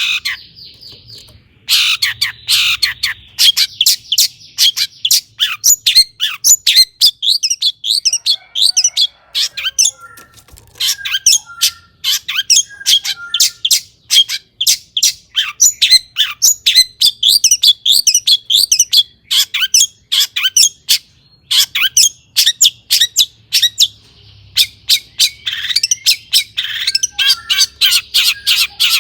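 A long-tailed shrike (cendet) singing hard: a fast, nearly unbroken run of short, sharp chattering notes, with a short pause just after the start and harsher, scratchy phrases near the end.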